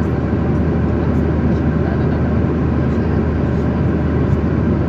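Steady cabin noise of an airliner in cruise: a constant low rumble of engines and rushing air, heard from inside the passenger cabin.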